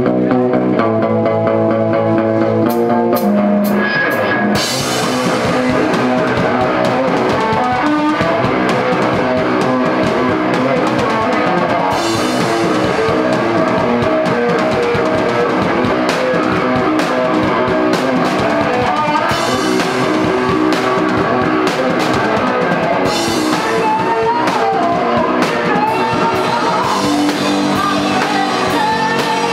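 Rock band playing live: guitar notes ring out nearly alone at first, then the drums crash in about four and a half seconds in and the full band plays on with guitars, bass and drum kit.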